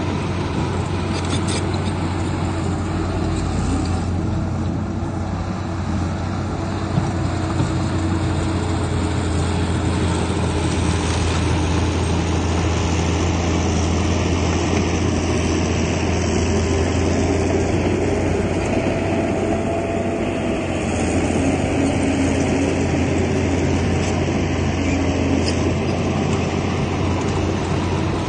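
Heavy diesel earthmoving machinery running steadily under load, with a strong low engine drone, and two short knocks about seven seconds in.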